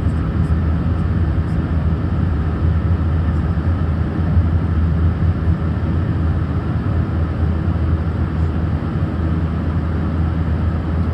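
Steady, low drone of an Airbus A319's engines and airflow heard inside the passenger cabin from a window seat.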